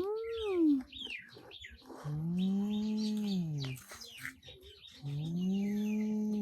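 Birds chirping and twittering, with two long, low, drawn-out calls that each rise and then fall in pitch.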